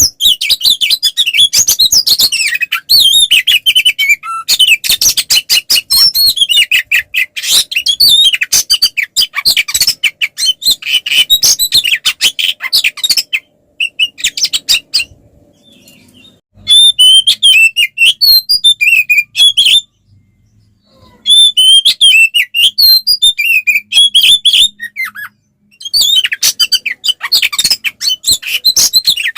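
Oriental magpie-robin (kacer) singing loudly in fast, varied runs of whistles and chattering notes, broken by short pauses about 14, 20 and 25 seconds in. It is the full, aggressive fighting song that bird keepers use to provoke other magpie-robins.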